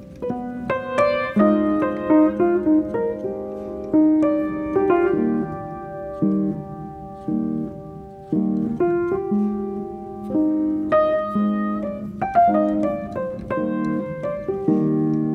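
Piano music: a melody of separate notes over chords, each note struck and fading.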